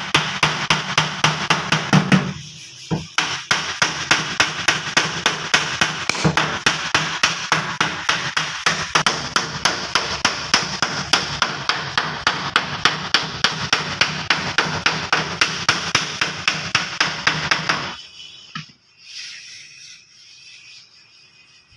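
Hammer blows on car body sheet metal in a fast, even rhythm of about five a second during dent beating. There is a short pause about two seconds in, and the hammering stops about eighteen seconds in.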